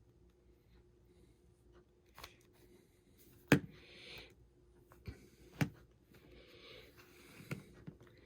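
A plastic pick scraping along the edge of an iPhone 6's display as it is pried from the frame, with several sharp clicks, the loudest about three and a half and five and a half seconds in.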